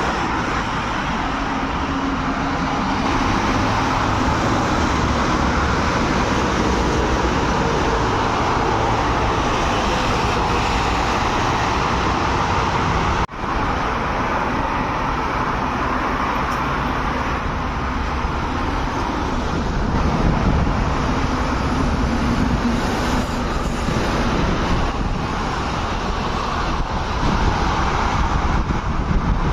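Steady road traffic noise: motor vehicles driving, an even mix of engine rumble and tyre noise, with a brief break about 13 seconds in where the sound cuts and resumes.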